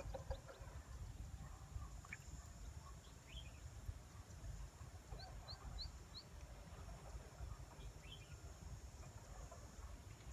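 Faint bird calls over a low steady rumble, among them four quick high chirps about five seconds in.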